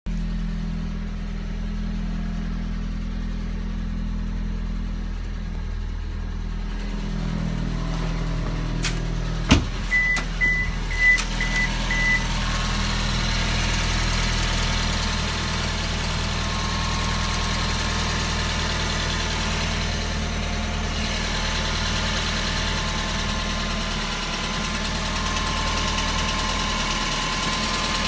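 Suzuki Swift Sport ZC32S's 1.6-litre four-cylinder engine idling cold with a clattering rattle, a noise that goes away once the engine warms up and the revs settle. A sharp click comes about nine and a half seconds in, followed by a few short beeps.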